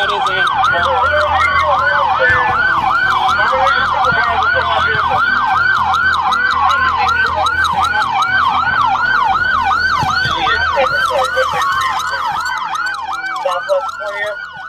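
Police car sirens on the fast yelp setting, the pitch rising and falling about three times a second, with more than one siren overlapping. A low engine and road rumble runs underneath, and near the end the yelp fades.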